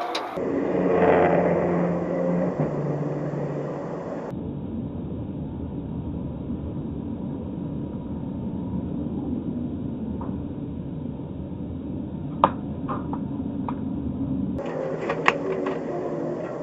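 Car engine and road rumble from several clips cut together: an engine note that steps down in pitch a few seconds in, then a steady low rumble with a sharp knock later on, and clicks near the end.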